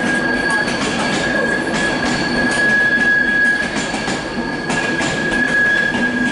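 Electric train, a Class 91-hauled InterCity 225, running along the platform. Its wheels give a steady high-pitched squeal over the rumble and clicking of wheels on rail joints.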